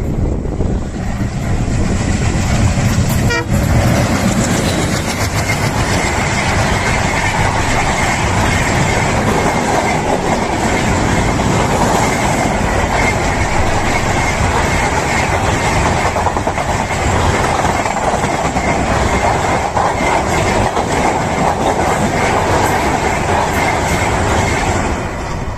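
Passenger train with two diesel locomotives passing at full speed: a loud, steady rush and rumble of wheels on rails and running coaches. It builds over the first couple of seconds and starts to fade near the end.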